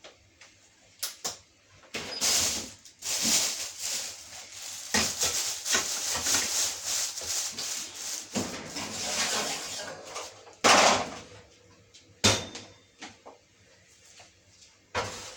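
Aluminium foil crinkling and rustling as it is handled and pressed around a dish, followed by a couple of sharp knocks.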